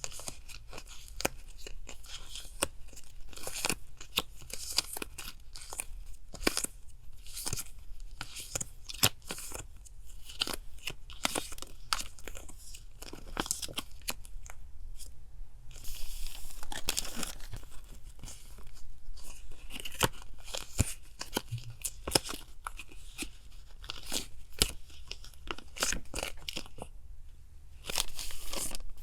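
Close-up rustling, crinkling and tearing of paper and plastic stationery packaging, a dense run of small crackles and clicks, with louder, longer rustles about 16 seconds in and again near the end. A faint steady refrigerator hum sits underneath.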